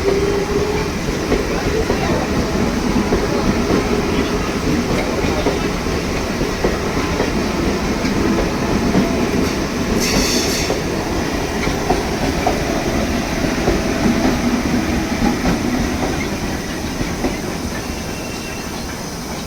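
Passenger train running on the rails with a continuous rumble and wheel clatter, a brief high squeal about ten seconds in, and a little quieter near the end.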